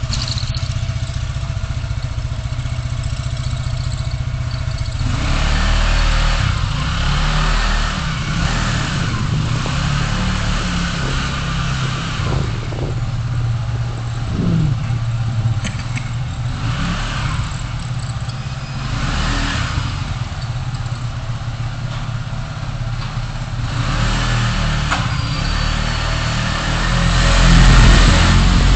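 Car driving in city traffic, heard through a dashcam's microphone: a steady low engine and road rumble, with traffic noise swelling and fading several times, louder near the end.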